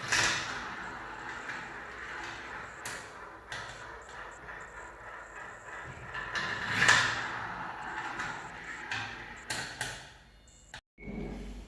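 Marbles rolling down a marble-run track: a continuous rolling rattle with scattered clicks as balls hit the track, swelling just after the start and again about seven seconds in, then dropping out briefly near the end.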